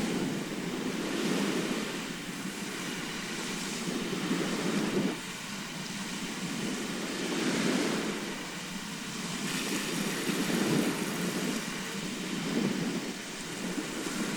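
Sea surf: waves breaking and washing in, the noise swelling and easing every few seconds, with a sudden dip about five seconds in.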